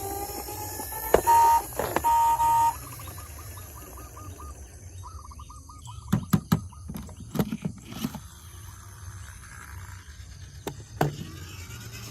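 Toy vehicle's electronic sound effects: two loud beeps, then a fainter warbling electronic tone. A few plastic clicks and knocks follow.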